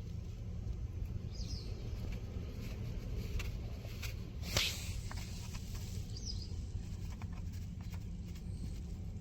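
Outdoor ambience: a steady low rumble with faint scattered clicks, two faint short high chirps, and a brief hiss about halfway through.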